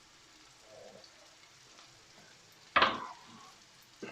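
Curry sauce frying faintly in a pan. About three seconds in, a sudden loud sizzle as the chopped chillies go into the hot pan, dying away within half a second, then a short sharp knock near the end.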